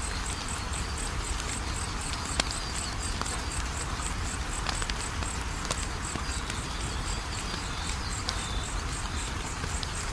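Wood fire crackling, with scattered sharp pops (a loud one about two and a half seconds in) over a steady low rumble. An insect chirps in the background, a high even chirp about four times a second.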